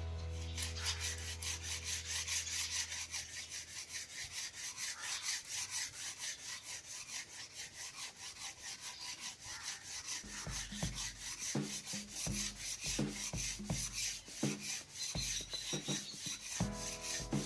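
Sandpaper rubbed rapidly back and forth by hand along a wooden snooker cue shaft, a rhythmic scratchy hiss of several strokes a second. From about ten seconds in there are also low thuds.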